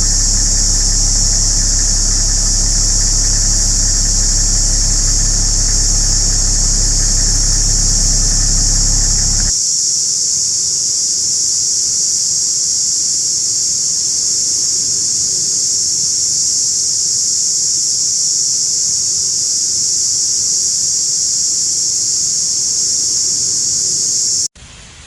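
A loud, steady, shrill insect drone of the kind cicadas make, which cuts off suddenly about a second before the end. Under it, for the first ten seconds or so, runs a low, steady engine-like hum that stops abruptly.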